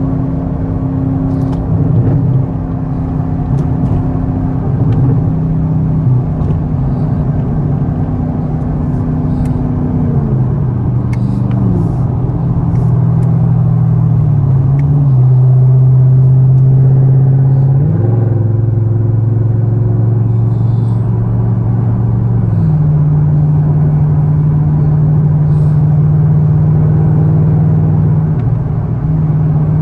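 Chevrolet Camaro ZL1's supercharged V8 droning at highway speed. Its pitch sinks about a third of the way in, shifts again a little past halfway, and steps up about three quarters of the way through.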